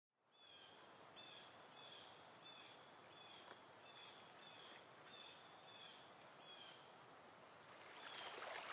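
Faint bird chirping, one short call about every two-thirds of a second, over a steady hiss that grows louder near the end.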